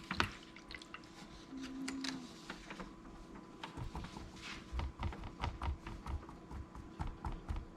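Handling of small wooden toy car kit pieces: scattered light clicks and taps, with soft low bumps joining in from about four seconds in.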